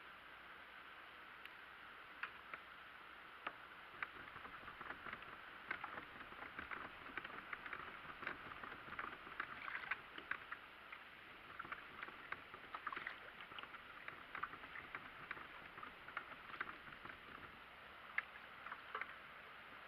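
Small irregular water splashes and drips against a kayak on the sea, a faint crackling patter that is busiest through the middle.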